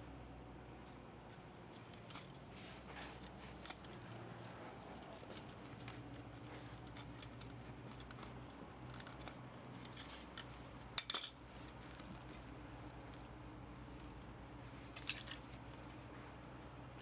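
Scattered light metallic clicks and clinks of hand tools and metal motor parts being handled, the loudest a quick pair about eleven seconds in, over a faint steady low hum.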